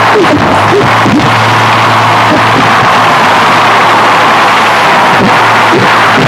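Harsh noise music: a loud, unbroken wall of distorted hiss strongest in the midrange, over a steady low hum, with irregular wobbling squeals and crackles underneath.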